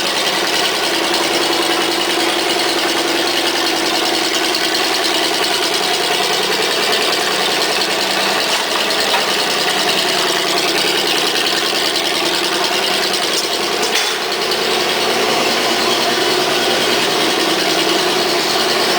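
Oldsmobile 350 (5.7 L) V8 idling steadily through Flowmaster mufflers.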